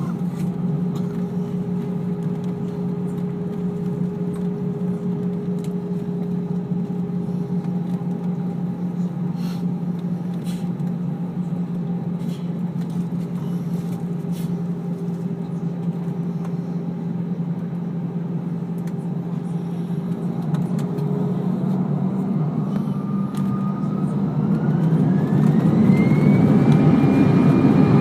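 Airbus A319's jet engines heard inside the passenger cabin, running with a steady hum while the plane taxis. About 22 seconds in a whine rises in pitch and the sound grows louder as the engines spool up for takeoff.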